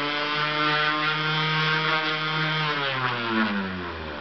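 Electric orbital sander, fitted with a homemade styrene base and 50-grit paper, running at a steady speed, then winding down with falling pitch to a stop near the end as it is switched off.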